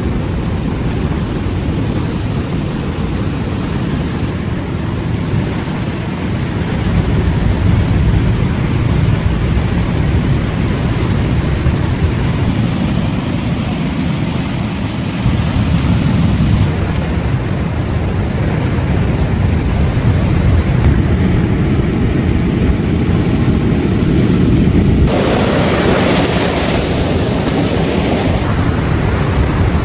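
Ocean surf washing onto a beach, with wind rumbling on the microphone. A wave swells and fades again about three-quarters of the way through.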